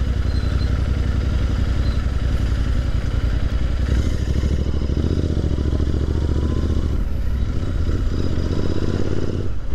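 Royal Enfield Interceptor 650's parallel-twin engine running as the motorcycle rides at low speed, growing somewhat louder about halfway through as it picks up.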